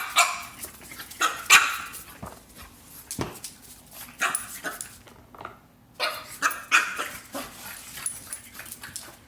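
Puppy barking and yipping in short, repeated bursts, with scattered sharp clicks between them.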